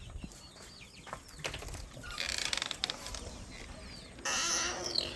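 Poultry giving short chirping calls, with two brief bursts of rapid rattling, fluttering noise, about two seconds in and again about four seconds in.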